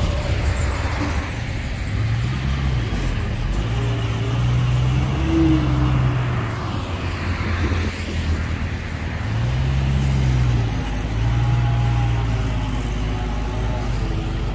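Heavy diesel engine running loud, its revs rising and holding twice, about two seconds in and again a little after the middle, then dropping back.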